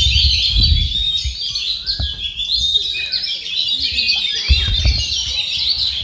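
Oriental magpie-robin (kacer) singing a fast, unbroken stream of high chirps, trills and twittering phrases. Low rumbling bumps come through in the first second or so and again near the end.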